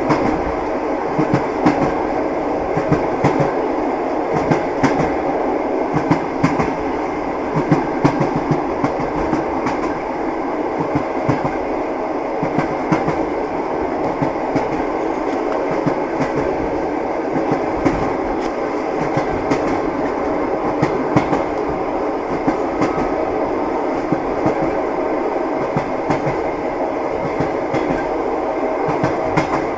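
Train wheels knocking over rail joints, heard from inside a moving passenger carriage: a steady rolling rumble with frequent sharp clacks.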